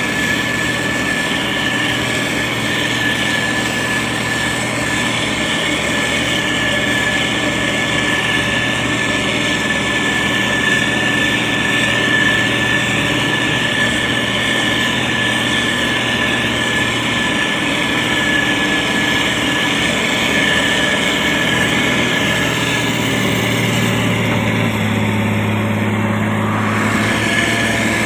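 Motor grader's diesel engine running steadily under work, with a thin high whine over the engine note. About 23 seconds in, the engine note shifts and thickens, then holds.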